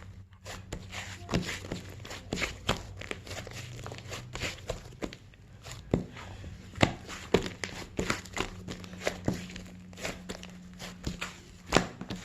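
Squishy slime being squeezed and worked by hand, giving irregular pops and crackles, a few louder ones scattered through.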